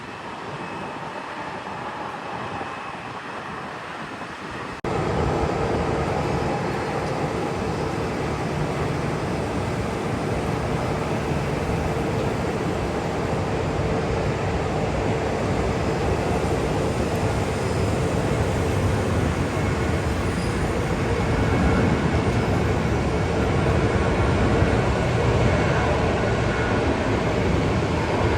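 Jet aircraft engine noise: a steady rushing sound with a faint hum in it. It jumps suddenly louder about five seconds in and grows a little stronger toward the end.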